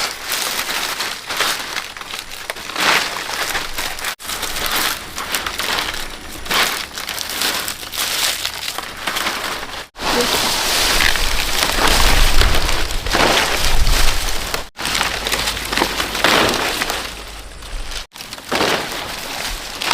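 Dry palm leaves rustling and crackling in uneven surges as they are handled and laid in place for thatching a roof, broken by several abrupt cuts.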